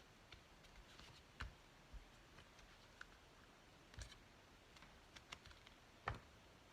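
Near silence with faint, scattered light taps and clicks, about one every second or so, from paper and craft supplies being handled on a work surface.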